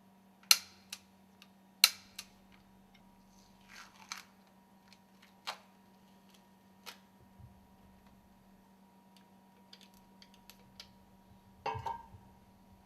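Scattered sharp clicks and taps of hand tools at work on the stuffing box housing bolts, the two loudest about half a second and two seconds in, and a short cluster of taps near the end.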